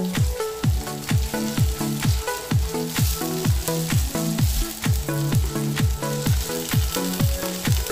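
Background music with a steady kick-drum beat, over onions and tomato paste sizzling in a nonstick frying pan as they are stirred with a spatula.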